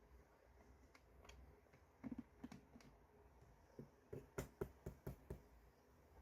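A scattered run of light, sharp clicks and taps from small objects being handled: a few near the start, a cluster around two seconds in, and a quicker run of about seven in the second half.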